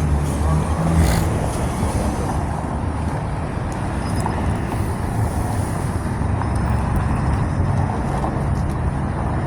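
Steady motor vehicle noise at a roadway: an engine running with road traffic, with a brief knock about a second in.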